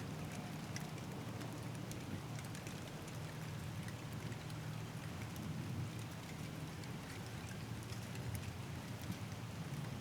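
Steady thunderstorm rain falling, with many individual drops striking close by as sharp ticks, over a steady low hum.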